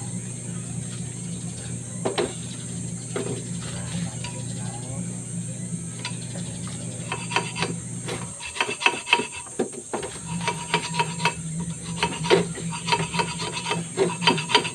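A steady motor hum while a cutting tool scrapes and rasps against a spinning brake drum, skimming metal off its surface. About halfway through the scraping turns into a dense run of ringing, squealing scrapes, the hum drops out for about two seconds, and then hum and scraping resume.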